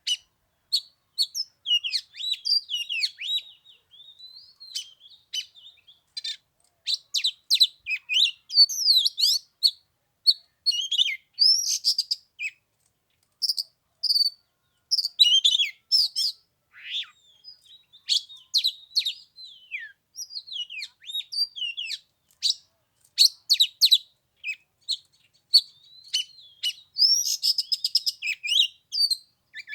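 Oriental magpie-robin singing: a varied stream of sweet whistles, chirps and rapid trills, in bursts with short pauses between phrases.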